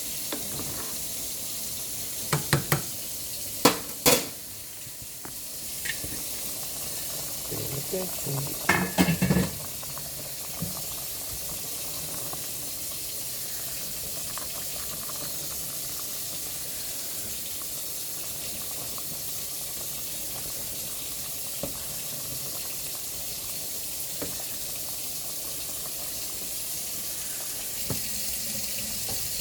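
Pot of chicken gizzards in flour-thickened gravy cooking on the stovetop with a steady hiss as the gravy thickens. A few sharp clinks and knocks of a utensil against the pot come in the first ten seconds.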